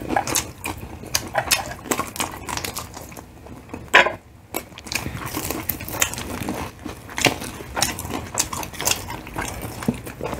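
Close-miked eating of crispy fried chicken: irregular crunching and chewing with sharp little crackles, and an occasional clink of cutlery or plate. One louder click about four seconds in.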